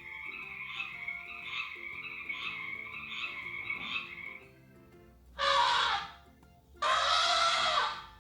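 Frog croaking in a rapid pulsed trill, repeating about every two-thirds of a second, until about four and a half seconds in. It is followed by two loud, rasping, breathy bursts, the second one longer.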